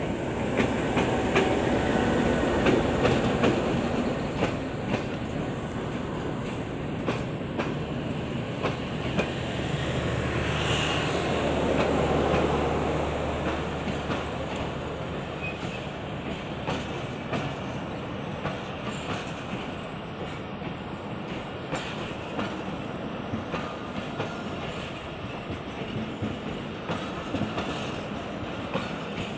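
Pakistan Railways GEU-20 diesel-electric locomotive running past, followed by its passenger coaches rolling by with a steady rumble and repeated clicks of wheels over the rail joints. It is loudest in the first few seconds as the locomotive goes by, and swells again about ten to thirteen seconds in.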